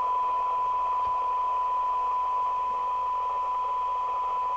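A CB radio receiver's speaker playing a steady 1 kHz test tone over hiss. The radio is receiving a weak tone-modulated FM test signal set for the 12 dB SINAD sensitivity reading, so the tone is only partly clear of the noise.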